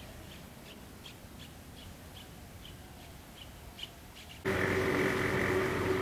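A small bird chirping in a regular series of short, high chirps, about three a second, over quiet open-air ambience. About four and a half seconds in, a louder steady mechanical drone with a held tone cuts in abruptly.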